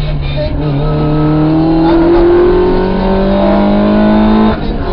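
Rally car engine pulling hard, its note rising steadily, with a brief break about four and a half seconds in, as at a gearshift.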